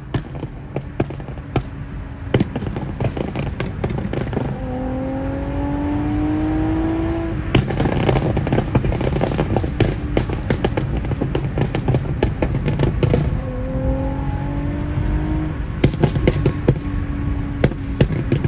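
Nissan 370Z's 3.7-litre V6 running through a full ISR exhaust (long-tube headers, Y-pipe, catback). The engine note climbs in pitch twice, each climb a few seconds long, with popping and crackling from the exhaust throughout.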